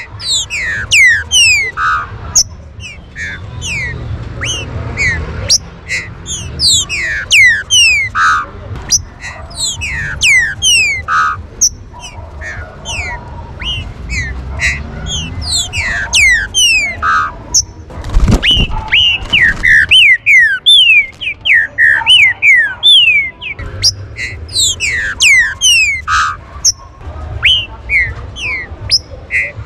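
Green-winged saltators (trinca-ferro) calling: a rapid, overlapping stream of short, sharply falling whistled notes, with a dull knock a little past halfway.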